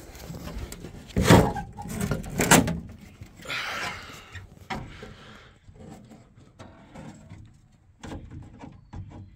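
Two loud metal bangs about a second apart, then a scraping creak and a few lighter knocks: the old truck's engine hood being unlatched and swung open.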